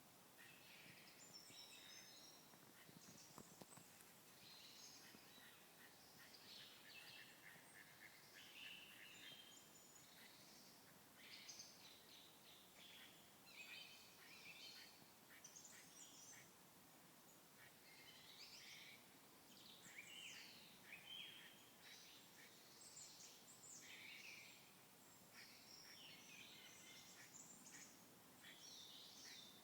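Faint chorus of many birds calling over one another: a continuous stream of short, high chirps and twitters.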